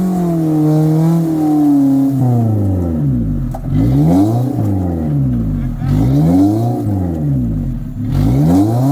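Engine of a Suzuki 4WD revved again and again in short bursts, its pitch rising and falling about once a second, while the truck works to climb out of a rocky hole.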